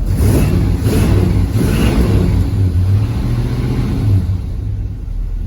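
A 350 small-block Chevy V8 with a Holley Street Demon 625 carburetor is running just after being started, revved a few times. It eases back toward idle about four seconds in.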